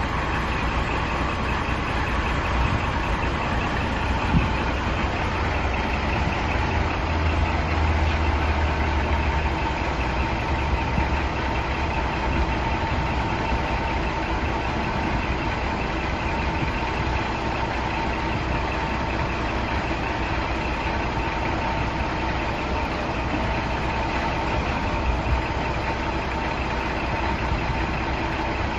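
Scania R480 truck's straight-six diesel engine idling steadily, with a brief swell in its low rumble about a quarter of the way through.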